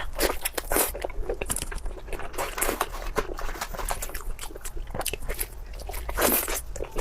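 Close-miked eating sounds: a person biting and chewing food, with irregular crunches and wet mouth clicks and a louder crunch about six seconds in.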